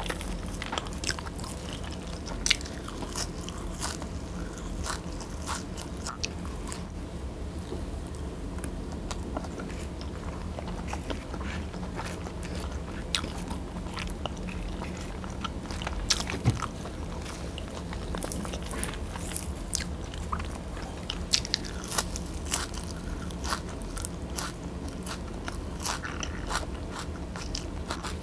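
Close-miked eating sounds: a person chewing with sharp, irregular wet mouth clicks and crisp crunches, eating fresh coriander sprigs with rice and braised pork belly. The clicks come thicker in the second half.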